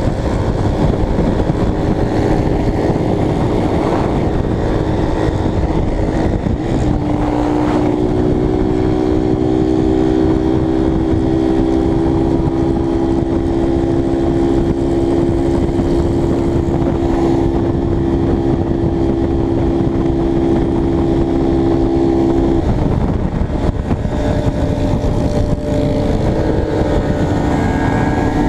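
Honda CBX 250 Twister's single-cylinder engine running at a steady cruise under heavy wind rush on the microphone. The engine note holds steady for about fifteen seconds, changing pitch about seven seconds in and again near the end.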